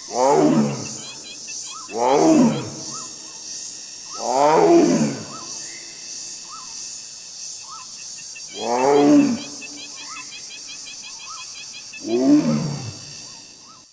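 Tiger roaring: five separate calls, each under a second long and falling in pitch, spaced irregularly a few seconds apart. A steady high buzz and faint regular chirps run underneath.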